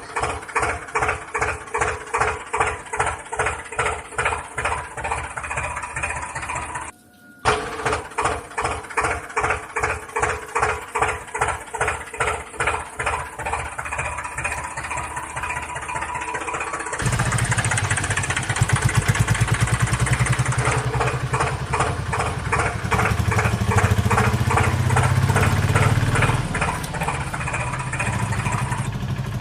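Tractor engine chugging at idle in steady pulses, about three a second, cutting out briefly about seven seconds in; from about two-thirds through, a louder, deeper engine runs.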